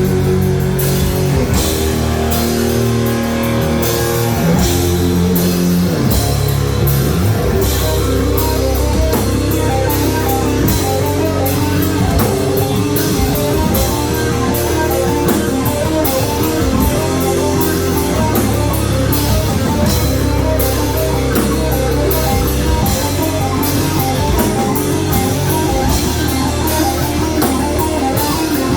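Rock band playing live: guitars and a drum kit at full volume, with steady cymbal hits. From about eight seconds in, a run of quick repeated higher notes plays over the chords.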